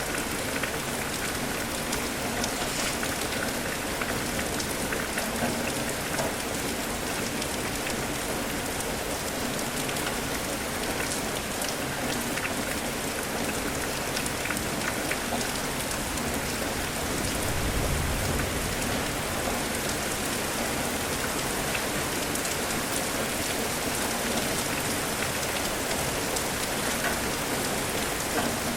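Steady rain falling, a dense even patter of drops, with a brief low rumble about two-thirds of the way through.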